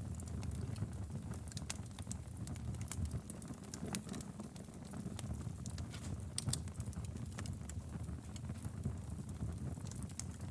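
Wood fire burning in a fireplace, with a steady low rumble of flames under irregular sharp crackles and pops that cluster a little after two seconds and again about six and a half seconds in.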